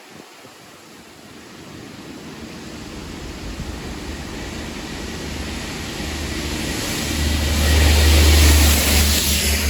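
Network Rail multi-purpose vehicle pair running as a railhead treatment train, approaching and passing on diesel power. A low engine drone and a broad hiss rise steadily and are loudest about eight seconds in as it passes close.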